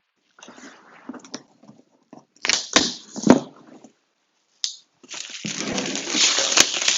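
A cardboard shipping box being handled and opened: scattered crackles, a few sharp knocks about two and a half to three seconds in, then a longer rustling, tearing stretch of about two seconds near the end.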